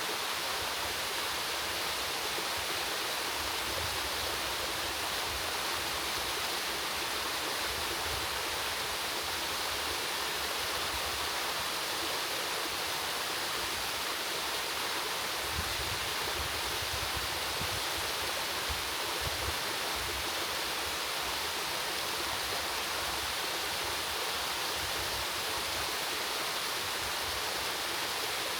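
Waterfall water falling and splashing in a steady, unbroken rush.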